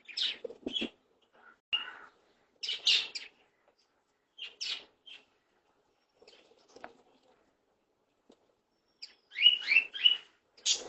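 Small pet parrot chirping in short, separate bursts with pauses between them, then a quick run of several chirps near the end.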